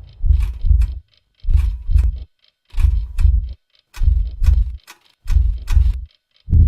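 Heartbeat sound effect: deep double thumps repeating about once every 1.3 seconds, with silence between beats.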